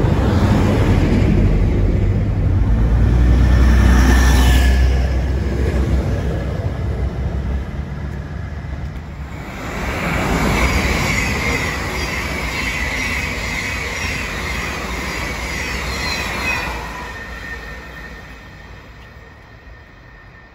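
A long passenger train passing at speed close to the platform, a deep rumble of wheels on the rails that slowly fades. About ten seconds in, an electric multiple unit running through on a far line adds a high humming tone, which fades away near the end.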